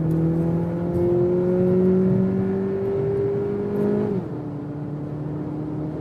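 Audi Q3 40 TFSI's turbocharged 2.0-litre four-cylinder petrol engine accelerating hard from motorway speed, heard from inside the cabin. The engine note climbs steadily, drops suddenly about four seconds in as the seven-speed S tronic dual-clutch gearbox shifts up, then runs on at a lower pitch.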